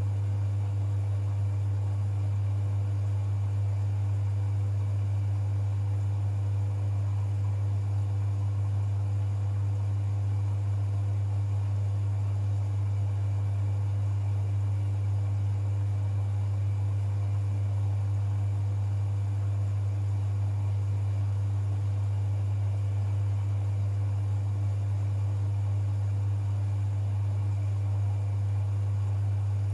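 Privileg 5020 front-loading washing machine running mid-cycle: a steady low hum that does not change, with no drum tumbling or motor rising or falling.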